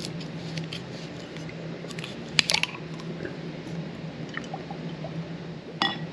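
Small kitchen handling sounds while a salad is dressed with olive oil: a few sharp clicks and taps, loudest about two and a half seconds in, with another near the end, over a steady low hum.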